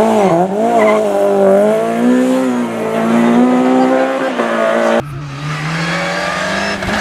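Rally car engine at high revs, its pitch dipping briefly near the start, then climbing slowly and holding. About five seconds in it cuts suddenly to another car's engine, quieter and steady.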